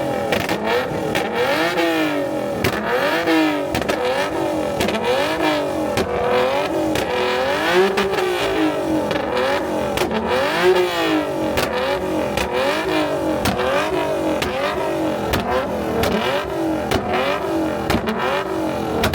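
Nissan Z car's VQ V6 engine revved hard over and over, its pitch climbing and dropping about once a second, with sharp cracks and pops scattered through it.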